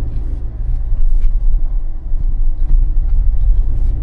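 Loud, uneven low rumble of a moving vehicle: engine and road noise with no speech.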